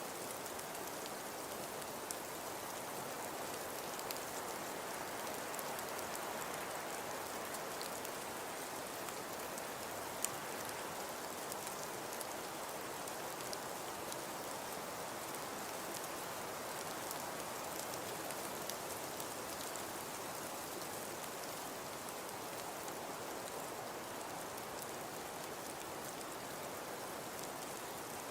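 Steady soft hiss of falling snow, with fine scattered ticks and one sharper tick about ten seconds in.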